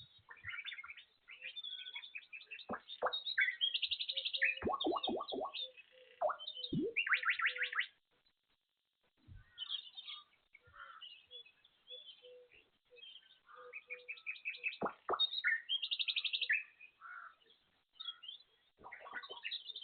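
Birds chirping and singing in irregular bursts, with fast trills, broken by a pause of about two seconds a little before the middle.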